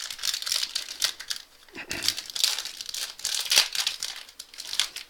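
Wrapper of a 2014 Topps Prime football card pack crinkling and tearing as it is pulled open by hand, in irregular crackly bursts with a short lull about a second and a half in.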